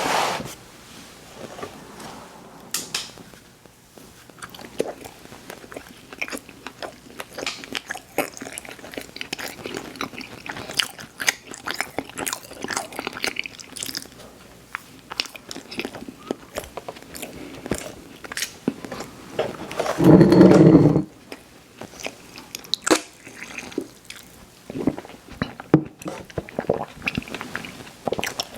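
Close-miked ASMR eating: a person biting and chewing snack cakes and sweets, with irregular wet clicks and soft crunches. About two-thirds of the way through comes a loud, low throaty sound lasting about a second.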